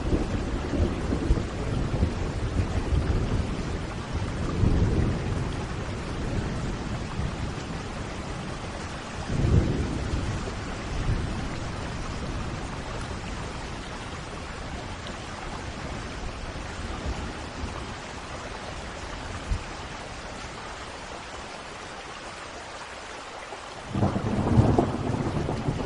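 Thunderstorm: steady rain with low rolling thunder over the first several seconds, a sharper peal about ten seconds in, then a quieter stretch of rain before a loud rumble of thunder starts suddenly near the end.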